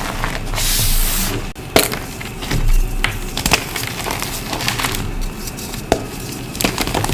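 Reformed gym chalk being crushed, crunching and crumbling, with a run of sharp cracks as pieces break apart.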